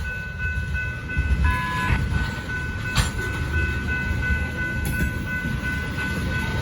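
Freight oil train of tank cars rolling past at a crossing: a continuous low rumble with steady high-pitched tones over it, and one sharp clank about halfway through.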